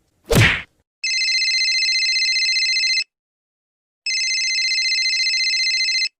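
Telephone ring sound effect: two trilling rings, each about two seconds long, with about a second between them. A short downward sweep comes just before the first ring.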